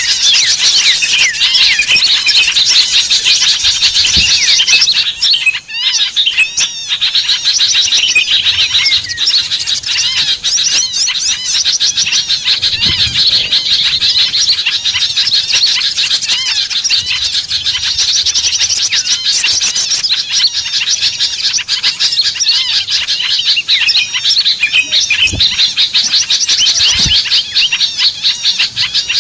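Dense chorus of small songbirds chirping and twittering, many rapid high calls overlapping without a break: a lure-call recording played to draw small birds in. The chorus dips briefly about six seconds in.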